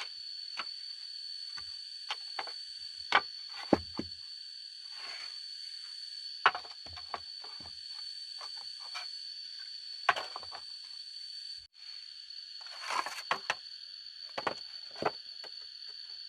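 Steady high-pitched drone of insects, with scattered irregular knocks and clicks over it. The drone breaks off for a moment about twelve seconds in.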